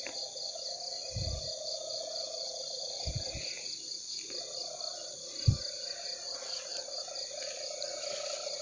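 Night insect chorus, crickets chirping steadily in an even pulsing trill. A few low thumps break in, the sharpest about five and a half seconds in.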